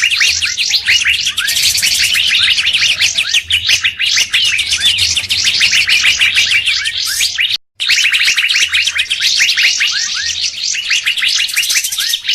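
Bird-lure recording of songbirds calling: a dense, continuous run of fast, high chirps and short sweeping notes, broken by a sudden brief gap of silence about seven and a half seconds in.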